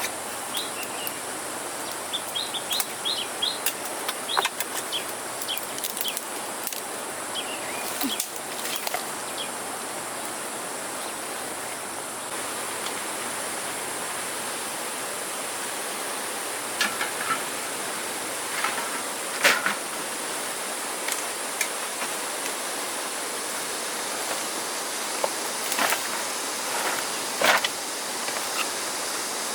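Outdoor ambience: a steady hiss, with birds chirping during the first eight seconds or so, and scattered sharp clicks and knocks, a few of them louder, later on.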